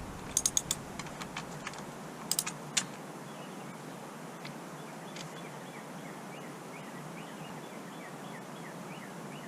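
Sharp metallic clicks and clinks of hand tools on the motorcycle, four quick ones near the start and three more about two seconds in. After that, a steady hiss with faint, evenly repeated high chirps.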